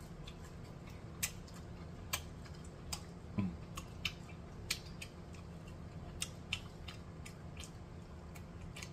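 Close-miked open-mouthed chewing of fried crack conch: about a dozen wet smacking clicks at irregular intervals.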